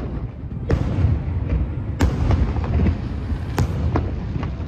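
Aerial firework shells bursting in quick succession: a run of sharp bangs, four of them loud and several smaller pops between, over a continuous low rumble.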